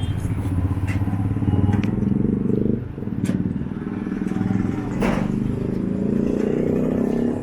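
An engine running unevenly, with a few sharp clicks over it.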